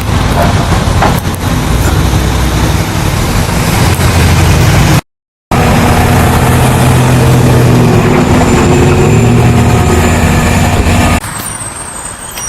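Heavy diesel truck engine running loud and close, its pitch wavering slightly, with a short break in the sound about five seconds in.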